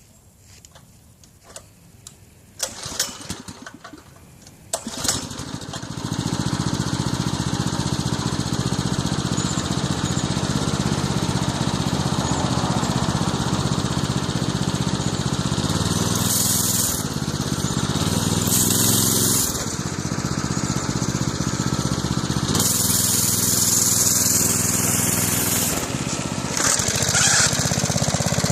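A mini bike's small engine sputters a few times, catches about five seconds in, then runs steadily under throttle. Several bursts of hiss and a short rising rev come through over the engine.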